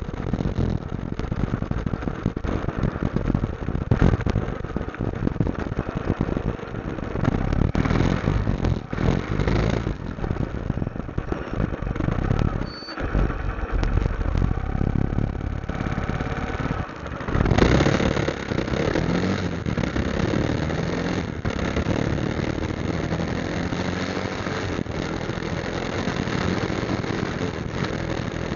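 Motorcycle engine running while being ridden, its sound rising and falling unevenly, with a louder surge about two-thirds of the way through.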